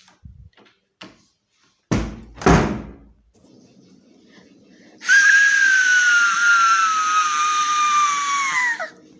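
Two heavy thumps, then a loud, high whistle held for about four seconds, its pitch slowly falling before it drops off sharply near the end.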